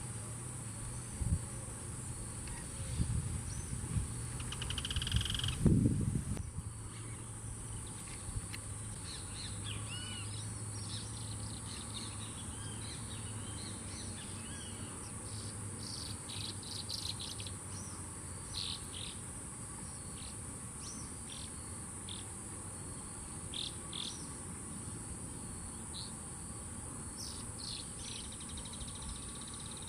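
Short bird chirps and calls over a steady, high insect drone. A few low thumps in the first six seconds, the loudest near six seconds in.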